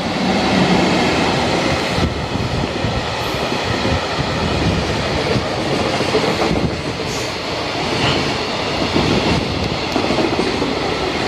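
Freight train hauled by an EF64 electric locomotive passing close by at speed, a continuous loud rumble with wheels clicking over the rail joints.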